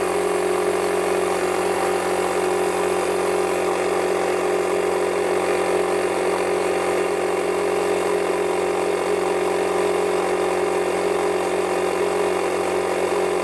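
Audew 12-volt portable air compressor running steadily with a constant hum while pumping up a tire.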